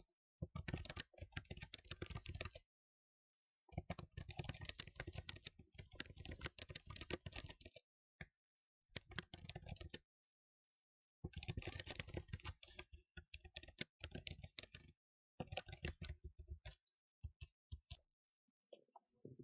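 Typing on a computer keyboard in quick runs of keystrokes, broken by short pauses of about a second, thinning to a few scattered clicks near the end.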